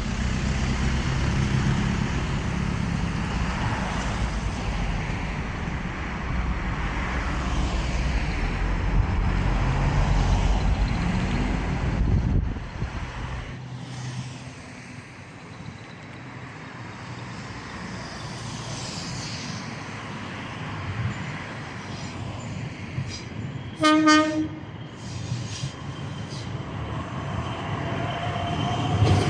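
A train running through the station with a heavy, steady low rumble for the first dozen seconds, then quieter rail noise. A short train-horn toot sounds about 24 seconds in, and a rising motor whine builds near the end.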